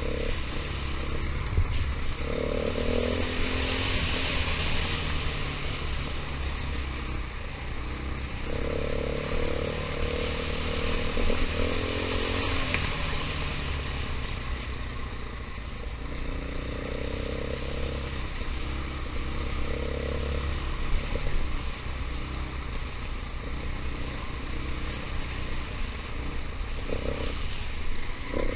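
Single-cylinder four-stroke dirt bike engine running under throttle, its revs rising and falling over several seconds at a time, with wind rushing over the microphone.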